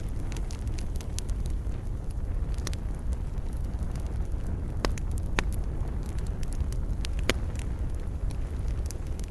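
Campfire burning: a steady low rumble of flames with scattered sharp crackles and pops of burning wood, a few louder pops around the middle.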